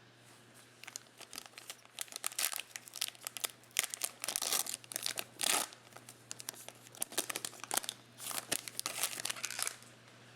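Plastic-foil trading card pack wrappers crinkling and being torn open, a run of irregular rustles, over a faint steady low hum.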